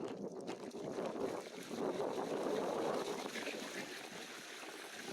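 Steady rushing wind noise on the microphone of a moving e-bike, with rolling tyre noise underneath, swelling somewhat in the middle.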